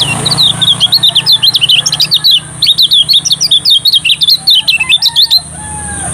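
Kecial kuning (white-eye) singing a fast, continuous run of high chirping notes that stops abruptly about five seconds in.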